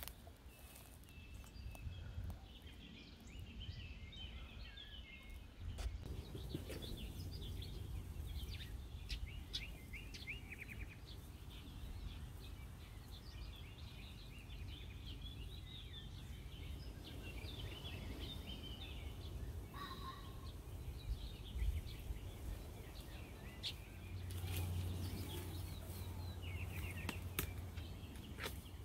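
Small wild birds chirping and trilling throughout, over a steady low outdoor rumble, with a few sharp knocks near the end.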